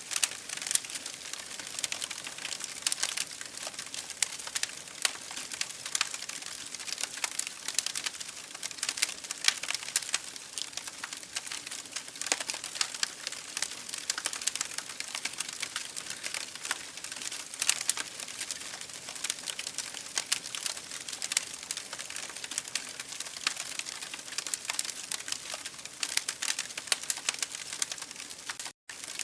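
Wood fire in an open fireplace crackling steadily: a dense stream of small pops with frequent louder snaps. The sound drops out for a split second just before the end.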